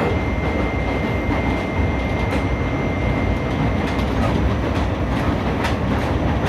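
New York subway train running between stations, heard from inside the car: a steady rumble and wheel noise with a few light clacks. A thin, steady high whine stops about four seconds in.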